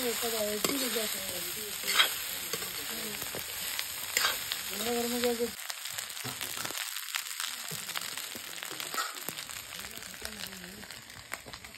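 Fried rice sizzling in a black iron kadhai, with a spatula scraping and knocking against the pan a few times as it is stirred. The sizzle eases off toward the end.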